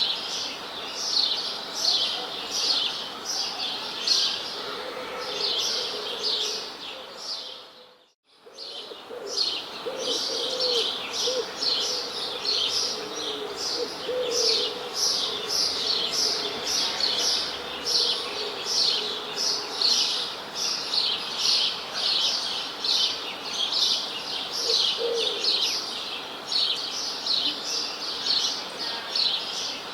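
Birds chirping: a steady run of short, high, falling chirps, several a second, with some lower calls beneath. It fades out briefly about eight seconds in, then resumes.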